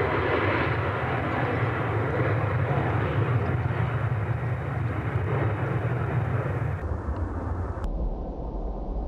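Jet airliner engines running loud and steady. The sound changes abruptly about seven seconds in and again about a second later, leaving mostly a low rumble.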